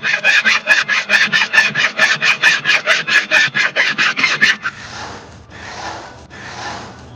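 A hand tool rasping back and forth on wood. Quick strokes come about five a second, then change to slower, longer strokes a little under a second apart, about two thirds of the way in.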